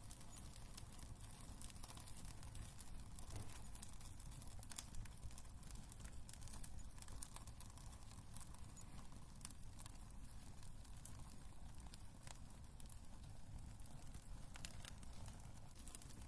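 Wood fire crackling in a fireplace: scattered sharp pops and snaps over a low, steady rumble.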